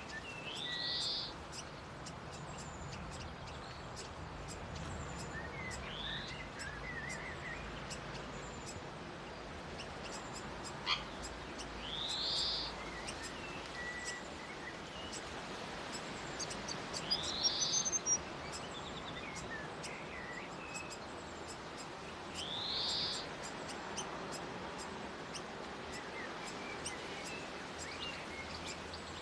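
A bird repeating a short rising whistled call about every five or six seconds, with faint short chirps in between. A sharp click comes about a third of the way in and a quick run of clicks just past the middle.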